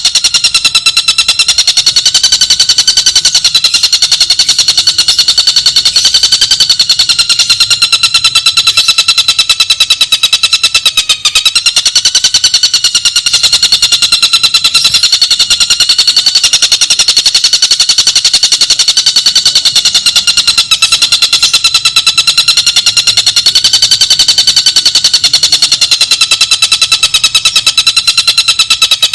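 A bird's continuous, very rapid trill, held unbroken for the whole stretch, its pitch gently rising and falling.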